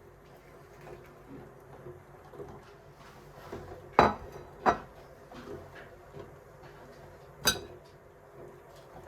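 Dishes and utensils handled and set down: two sharp knocks about four seconds in, half a second apart, and a ringing clink about three seconds later, with faint small clatter between.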